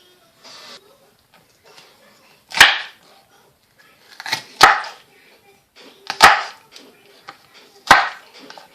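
Knife chopping through bell pepper onto a cutting board: four loud single strokes about a second and a half apart.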